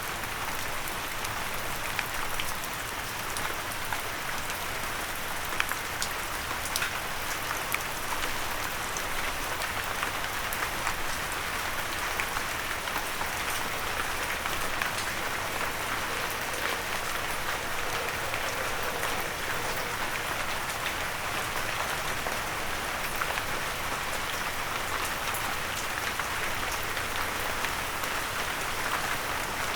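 Steady rain falling on a windowsill, an even hiss dotted with many sharp ticks of single drops striking.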